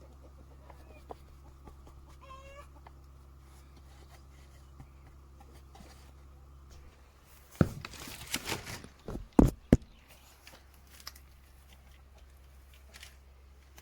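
Chickens clucking now and then over a low steady hum that stops about seven seconds in. A flurry of loud knocks and rustling comes about eight to ten seconds in.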